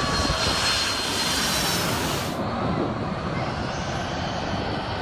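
Aircraft engine noise: a steady, loud rush with a thin high whine, which changes abruptly about halfway through, when the high end drops away.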